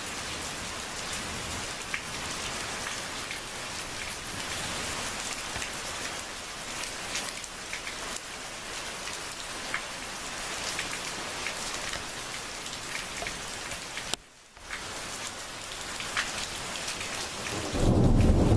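Steady rain falling on surfaces, with scattered louder drops ticking through it. It breaks off briefly about 14 seconds in. Near the end a loud low rumble of thunder begins.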